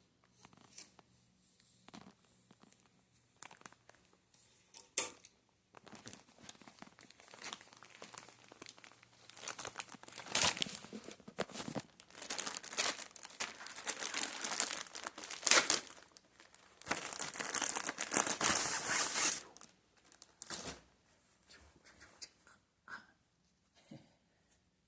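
Flag fabric rustling and crinkling in irregular spells as it is handled to be taken off, with a few sharp clicks along the way. The rustling is heaviest in the middle of the stretch and dies away near the end.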